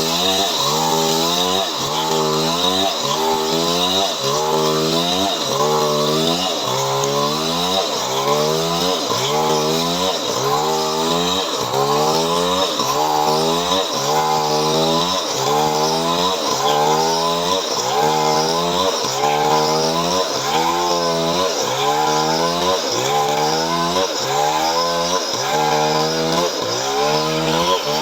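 Chainsaw running under load while cutting coconut-palm wood into boards, its engine pitch rising and falling in a steady repeating cycle about every second and a half.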